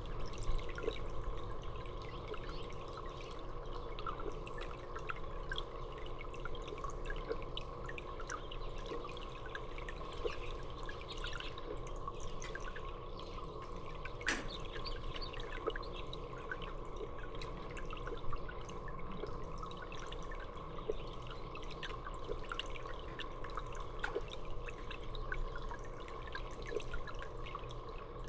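Water dripping and trickling steadily, with a constant patter of small drips and a steady hum underneath.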